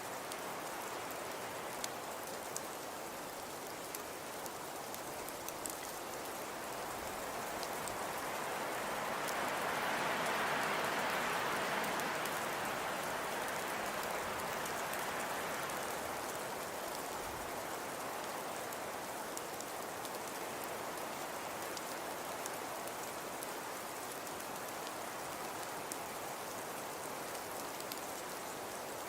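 Fireplace crackling: a steady hiss with scattered small pops, swelling louder about ten seconds in and easing back down.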